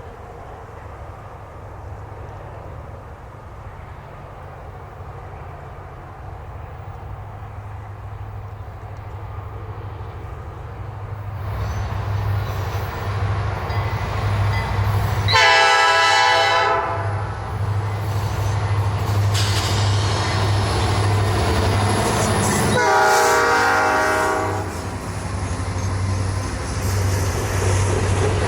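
Diesel-electric freight locomotive approaching, its engine rumble growing louder from about twelve seconds in, sounding its air horn in two long blasts.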